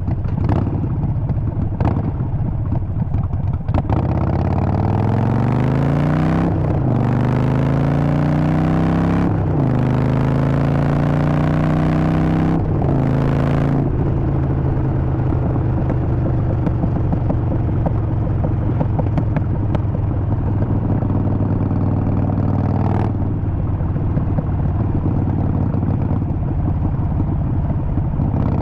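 Harley-Davidson Sportster Forty-Eight V-twin accelerating through the gears: the engine note climbs and drops back at three upshifts a few seconds apart, then holds steady at a cruise.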